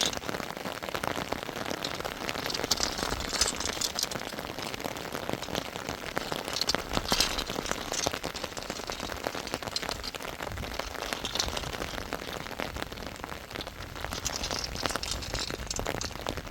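Steady rain falling, a dense patter of many small drops with no let-up.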